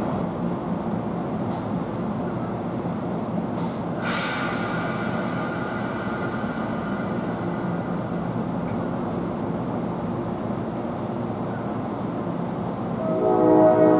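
Train rumbling steadily along the tracks, with a sharp clank about four seconds in that leaves a fading ringing tone. Near the end a train horn starts to sound.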